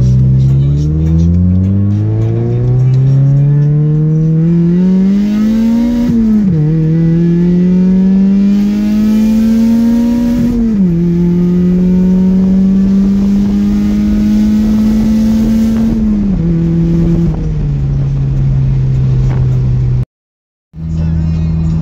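The supercharged 1.6-litre 4A-GZE four-cylinder of a 1987 Toyota MR2, heard from inside the cabin at full throttle. Its pitch climbs toward the redline, drops sharply with an upshift about six seconds in, climbs again and drops with another upshift about halfway through, then holds a steady note before stepping down twice to a lower one. The sound cuts out for a moment near the end.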